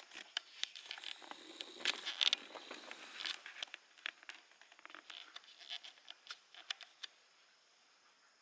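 Cat licking and grooming its fur: irregular soft rasping clicks, busiest about two seconds in and thinning out after about seven seconds.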